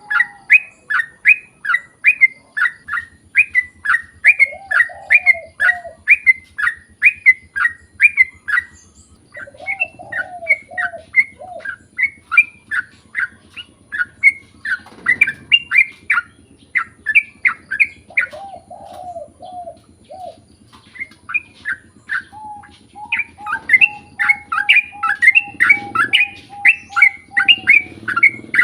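Yellow-vented bulbul (trucukan) calling in a long rapid series of short, sharp downslurred chirps, about three a second, broken by a few brief pauses. A lower warbled phrase breaks in a few times, and a long steady lower whistle runs through the last few seconds.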